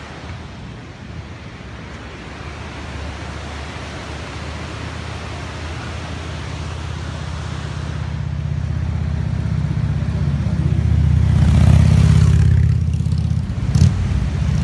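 Motorcycle engine running steadily under road and wind noise while riding. It grows louder over about twelve seconds, then eases off, with a brief sharp knock near the end.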